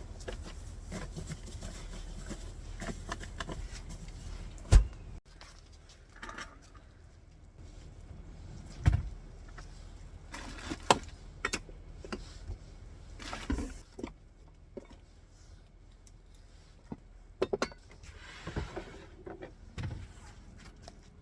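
Camping gear being packed away by hand: scattered knocks, clicks and clatter, with one loud thump about five seconds in and several smaller knocks later.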